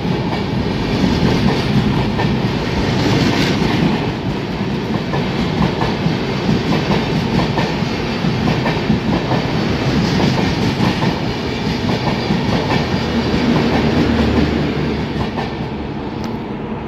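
Train hauled by a WDP4D diesel locomotive running at speed, its wheels clattering over the rail joints. The sound eases off a little near the end.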